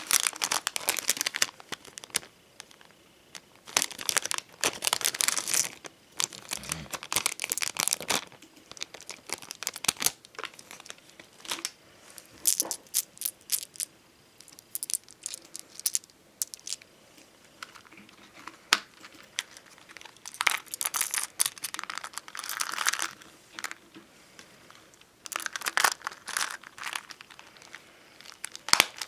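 Bonbon drop and ohajiki stickers and their sheets being handled: irregular bursts of crinkling and peeling, in clusters a second or two long with short quiet pauses between.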